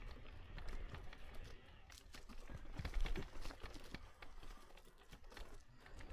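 Footsteps of someone walking on a trail: irregular crunching steps over a low, uneven rumble.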